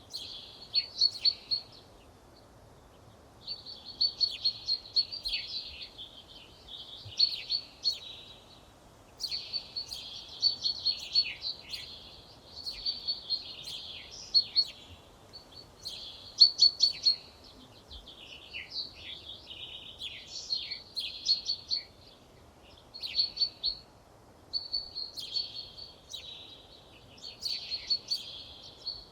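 Songbird singing: bright, fast phrases of one to two seconds, repeated with short pauses between them.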